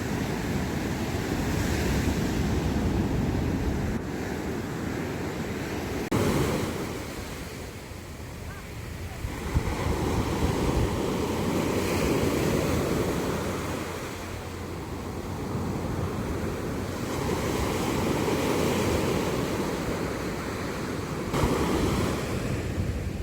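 Sea waves breaking and rushing on the shore, the surf swelling and falling back every few seconds, with wind rumbling on the microphone. The sound changes abruptly about six seconds in and again near the end.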